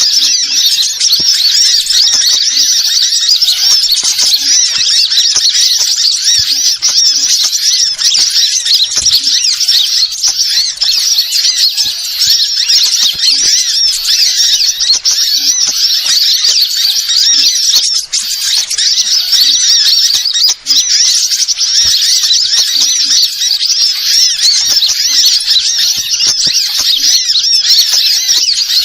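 Dense, continuous high-pitched chirping and twittering of many small birds, all at once without pause, as used in a recording for luring wild birds.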